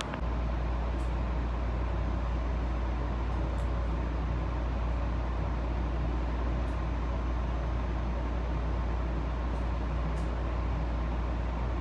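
Steady low rumble of a JR Shikoku 7200 series electric train, heard from inside the passenger cabin; it grows a little louder just after the start and then holds level.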